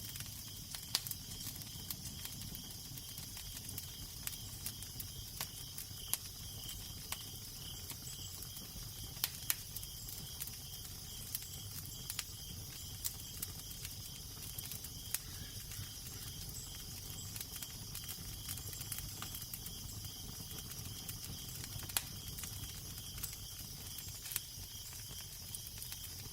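Fire crackling with irregular sharp pops over a steady low wind.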